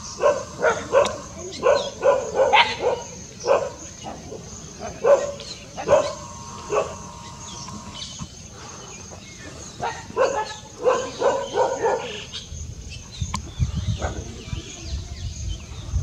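Repeated short, sharp animal calls in clusters of a few a second, with lulls partway through and after about twelve seconds. A faint steady high tone runs underneath.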